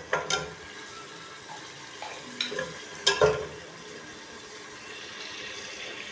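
Meat, tomatoes and green chillies sizzling in oil in a pressure-cooker pot. A spoon stirring scrapes and knocks against the pot a few times in the first half.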